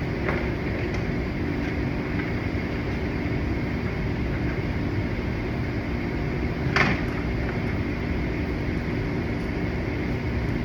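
Steady machine hum, like shop ventilation, with a single sharp plastic click about seven seconds in as the bumper parts are handled.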